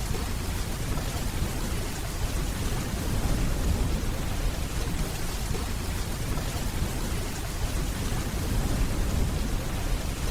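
Steady rainfall with a low rumble of distant thunder underneath.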